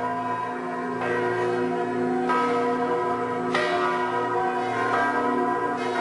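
Bells tolling in the credits music: four strikes a second or two apart, each ringing on long and overlapping the last.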